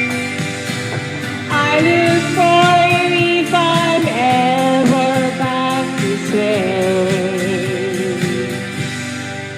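Folk song's closing bars: a voice holding long, wavering notes over strummed acoustic guitar, getting softer near the end.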